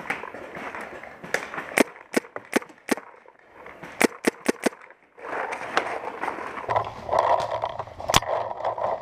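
Paintball marker firing: a string of about five sharp shots at roughly two a second, then a quicker burst of five, then a single shot near the end, over rustling movement noise.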